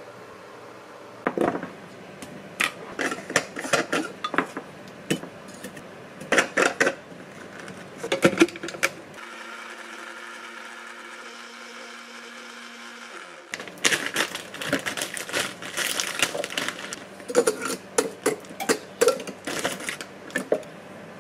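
Kitchen clatter: repeated clicks, knocks and short rattles of utensils and cookware. Midway a small motor hums steadily for about four seconds, then winds down and stops.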